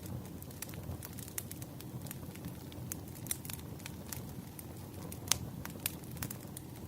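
Wood fire burning steadily, with irregular crackles and pops over a low rumble of flame; one sharper pop stands out about five seconds in.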